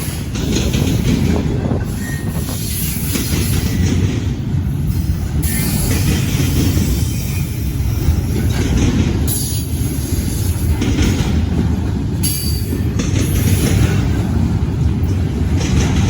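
Freight train cars rolling past as the train picks up speed: a steady, loud rumble of steel wheels on the rails, with a couple of faint, short high tones.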